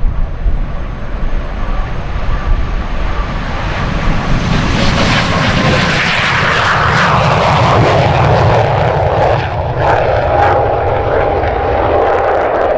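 MiG-17 jet fighter's turbojet on a low pass: the jet noise builds over a few seconds, peaks around the middle, then trails off with a whine that drops in pitch as the jet goes by.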